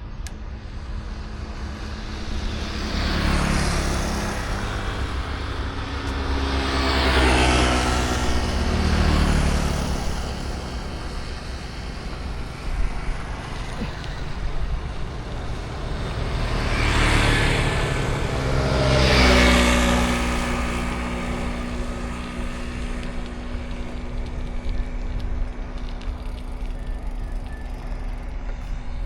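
Street traffic going past a moving bicycle: about five motor vehicles pass close by, one after another. Each engine swells and then drops in pitch as it goes by, over a steady background traffic rumble.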